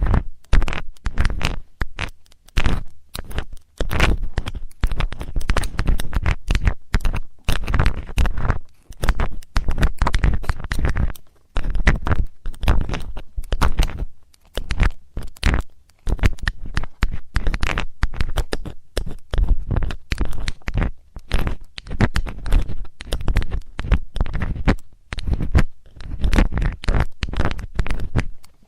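Metallic ear-cleaning tool scraping and rubbing close against a microphone's ear, in quick irregular scratchy strokes with a deep rumble.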